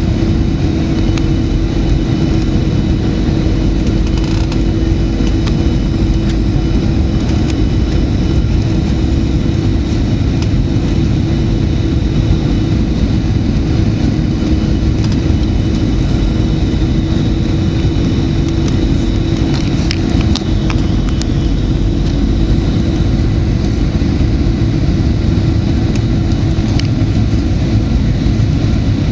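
Steady cabin noise inside a Boeing 737-900: its CFM56-7B jet engines running with a constant hum and a rushing noise, unchanging in level, with a few faint clicks about two-thirds of the way in.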